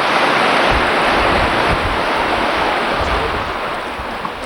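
Sea surf: a wave breaks and washes up, its hiss swelling near the start and slowly easing off, with wind rumbling on the microphone.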